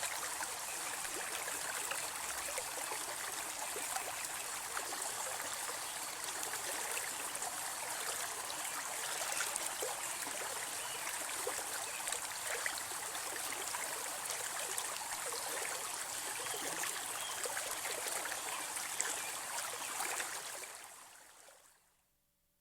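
Babbling brook: water running steadily over stones with small splashes, fading out near the end.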